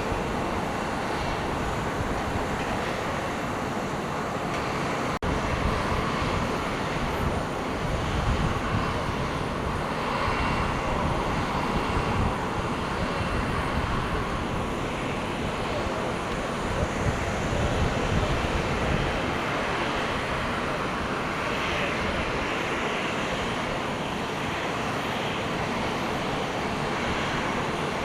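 Aircraft engines running at an airport, a steady rush, with wind gusting on the microphone.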